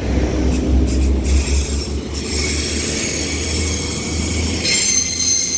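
Transport for Wales Class 197 diesel multiple unit pulling away, its engines giving a deep rumble. High, steady squealing tones build from about two seconds in and grow much stronger near the end, typical of wheel squeal as the train moves off.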